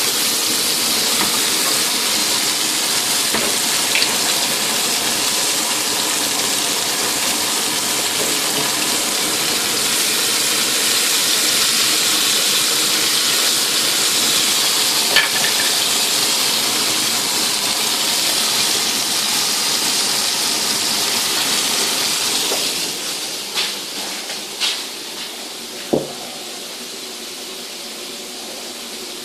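Vegetable skewers sizzling in hot oil in a frying pan: a loud, steady hiss with a few faint ticks of a spatula. Near the end the sizzling stops and a few short knocks follow.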